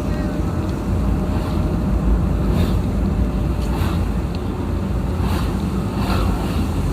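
Wind buffeting the microphone over a steady low rumble of travel along a road.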